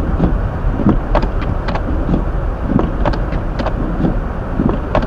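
Hyundai Elantra driving on a snow-covered road, heard from inside the cabin: a steady low road and engine rumble with short swishing strokes recurring about once a second, typical of windshield wipers clearing snow.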